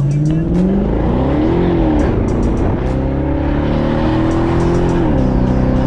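Car engine revving: the pitch climbs and falls back, then is held high for a couple of seconds before dropping to a lower steady note about five seconds in.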